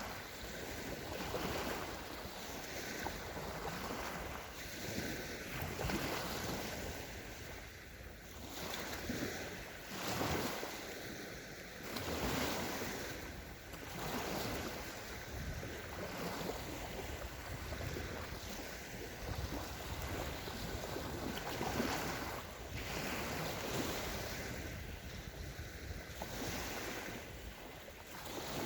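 Small sea waves breaking and washing onto a sandy shore, one after another every second or two, over a steady hiss of surf.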